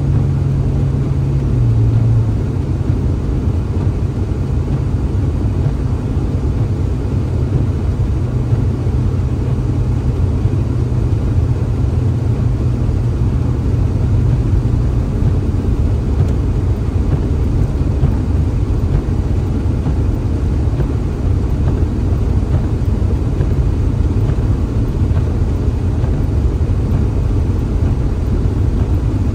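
A vehicle driving, giving a steady low rumble of engine and road noise. An engine hum shifts pitch about two seconds in.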